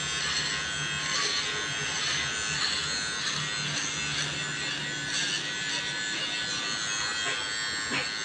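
Electric hair trimmer running with a steady buzz while it cuts hair.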